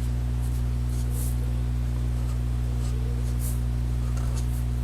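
Black marker drawing a few short accent strokes on paper, faint and scratchy, over a steady low hum.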